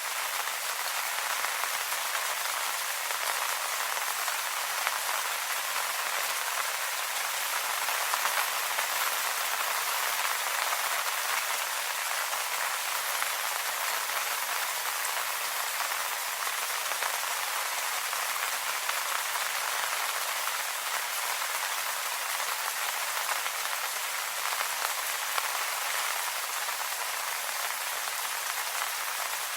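Steady rain falling on leaves, a dense even patter of many small drops with no let-up.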